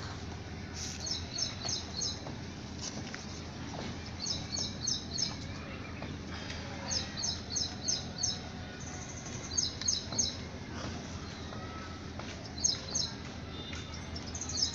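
A small bird chirping in quick runs of four or five high notes, a run every two to three seconds, over steady background noise.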